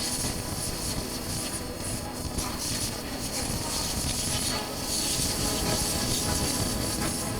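Steady wind rush and road noise on a chest-mounted camera while riding a Honda CB400X motorcycle, with the engine's low rumble underneath; the hiss swells briefly about five seconds in.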